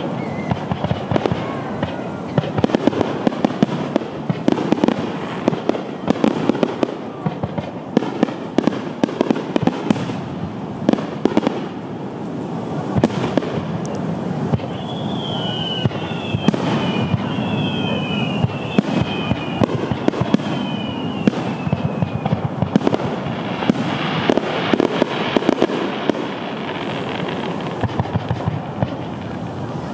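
Aerial fireworks shells bursting overhead: a dense run of bangs and rapid crackling that echo, with several short whistles falling in pitch around the middle.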